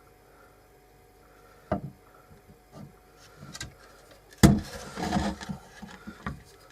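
Pieces of scrap wood being handled: scattered knocks of wood against wood or a bench, the loudest about four and a half seconds in, followed by a stretch of rubbing and scraping.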